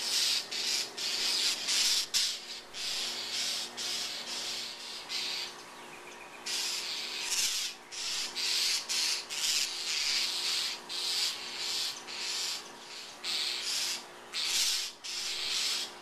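Birds giving harsh, raspy scolding calls in a rapid series, with a brief lull about six seconds in: alarm calls of agitated birds mobbing a cat.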